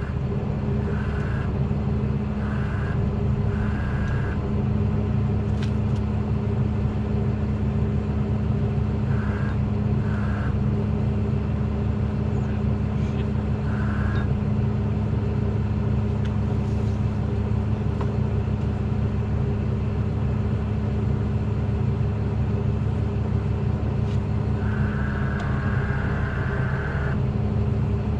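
Truck engine idling steadily, with a few short, higher-pitched sounds over it, the longest near the end.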